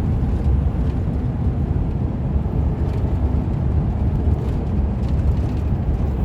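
Heavy truck on the move: a steady low rumble of engine and road noise.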